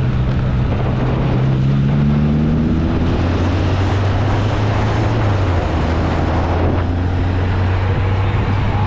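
Classic car's engine pulling under way, its note rising over the first few seconds and then settling to a steady lower drone, with steady wind and road noise.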